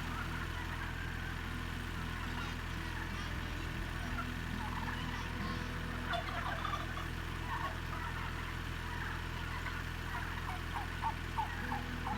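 Turkeys calling in short, quick notes, in a cluster about halfway through and another near the end. Underneath runs the steady low drone of a Kubota tractor's engine.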